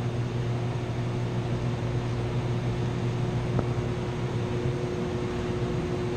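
Steady hum of running chiller-plant machinery: a constant low drone with a faint steady tone above it. There is a single light tap about three and a half seconds in.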